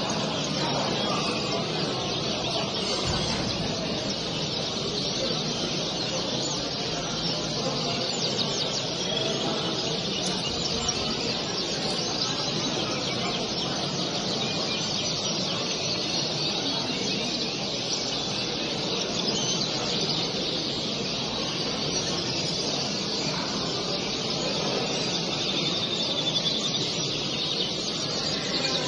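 A steady din of many caged songbirds chirping and singing at once, with a low hubbub beneath.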